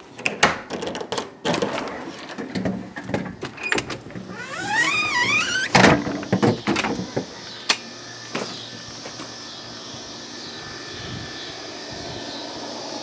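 A door is opened and shut: knocks and footsteps, then a wavering squeak rising in pitch from the hinges for about a second and a half, and a bang as it closes about six seconds in. After that comes a steady high hiss.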